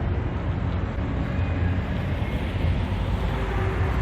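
Steady low rumble of road traffic and engines.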